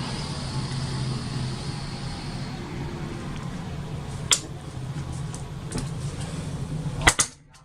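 Steady low hum of a cruise-ship cabin's ventilation in a small bathroom, with a few sharp clicks along the way; the sound cuts off suddenly near the end.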